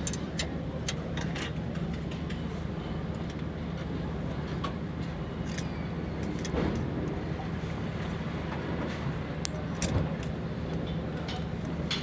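Metal hand tools clicking and clinking against an engine's valve gear during a tappet adjustment, over a steady low mechanical hum. A few louder clinks come near the end.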